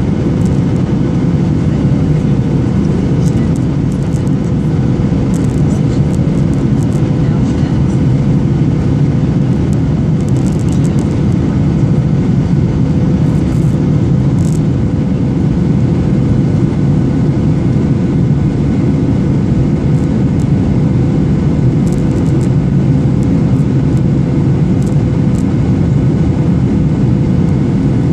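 Steady cabin noise of a Boeing 737-800 in flight: a constant roar of airflow and engines with a steady hum running through it.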